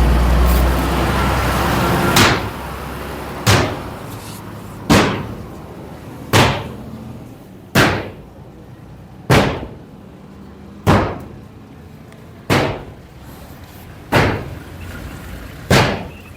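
A vehicle passes and fades in the first two seconds. Then come about ten sharp knocks at an even pace, roughly one every second and a half, each dying away quickly.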